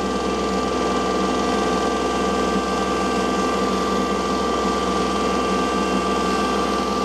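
Farm tractor engine running steadily, a constant drone with fixed tones that does not change pitch.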